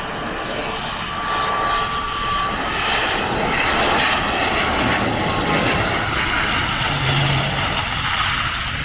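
Cessna 208B Caravan's single turboprop engine running steadily with the rush of air, on final approach to land. It grows a little louder over the first few seconds.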